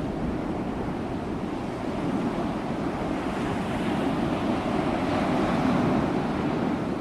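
Sea waves: a steady wash of surf that swells to a peak about five seconds in and eases off near the end.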